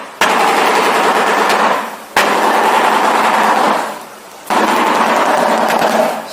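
Shoebill clattering its bill: rapid machine-gun-like rattles in three bouts, each starting suddenly and dying away over about two seconds.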